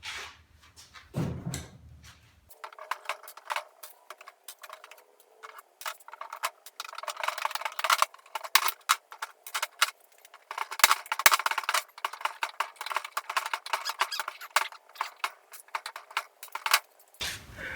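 A short knock, then a long run of rapid scratching, scraping and clicking from hand work on the old wooden chest of drawers, thin-sounding with no low end.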